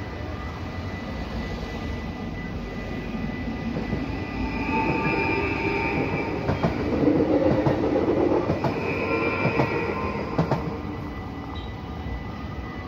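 An NS Stadler Flirt electric sprinter train passes over the level crossing, growing louder, then fading, with wheels clicking over rail joints as it goes by. The crossing's warning bells ring steadily throughout.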